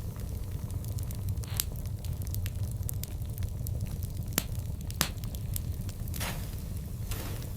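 Burning wood crackling, with many small ticks and sharp pops over a steady low rumble. The loudest pops come about one and a half, four and a half and five seconds in.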